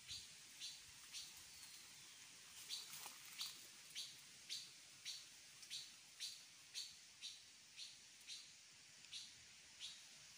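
A small bird chirping over and over: short, high chirps repeated about twice a second, faint against a quiet background.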